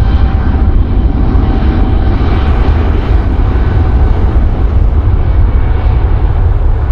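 Jet airliner's engines at close range: a loud, steady rumble with a faint whine.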